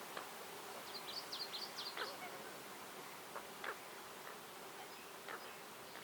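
A faint forest ambience with a steady insect hum, over which a small songbird gives a quick run of high chirps about a second in. A few soft scattered ticks follow later.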